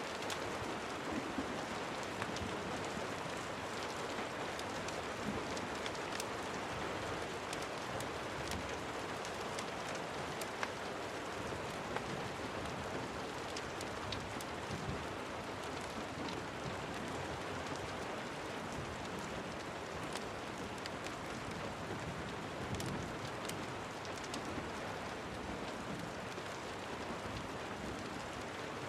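Steady rain falling, an even continuous hiss with scattered small clicks and taps.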